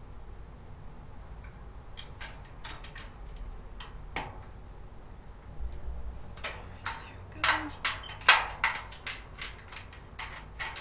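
Sharp clicks and light taps of a tool and the metal parts of a storage cart being put together, sparse at first, then louder and quicker, about two or three a second, from a little past halfway.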